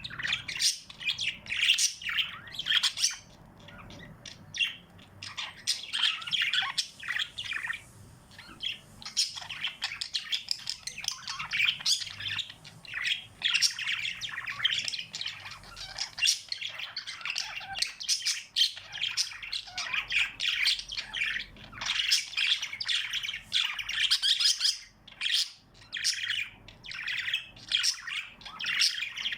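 A group of small pet birds chirping and squawking nonstop, many short high calls overlapping, with a quieter stretch a few seconds in.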